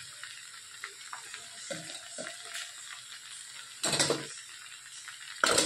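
Sliced potatoes and okra sizzling steadily in oil in a steel kadai. Two short, loud clatters come about four and five and a half seconds in, as spice powders are spooned into the pan.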